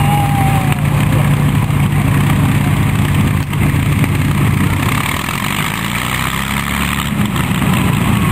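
An engine running steadily with a low hum; its note shifts about five seconds in.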